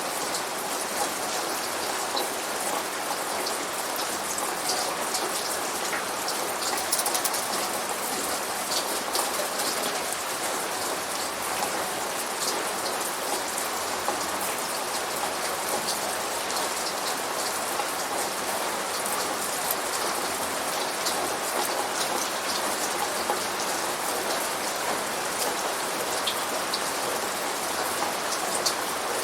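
Steady rain falling, an even hiss with many sharp individual drop ticks throughout.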